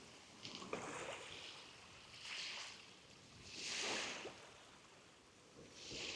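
Small sea waves lapping and washing up on the shore, a hissing wash that swells and fades four times, the loudest about two thirds of the way in.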